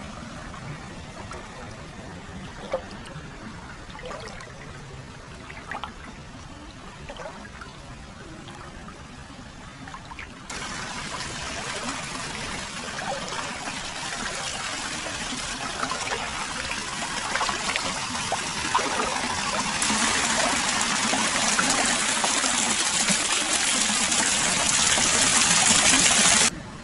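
Hot-spring water flowing into an open-air foot bath: a quieter trickle with small drips at first, then about ten seconds in it changes abruptly to a louder, steady rushing pour. The pour gets brighter in the last several seconds and cuts off just before the end.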